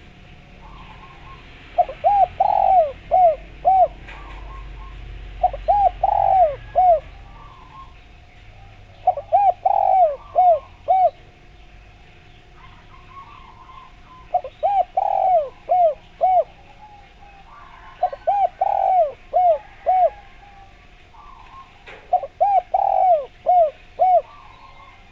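Spotted dove (derkuku, tekukur) cooing: six phrases of four or five short, arched coos each, repeated every few seconds. Faint chirps of other birds sound between the phrases.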